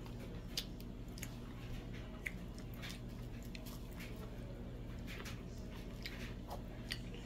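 Quiet eating sounds of someone eating by hand: soft chewing and small mouth clicks, scattered irregularly, over a low steady hum.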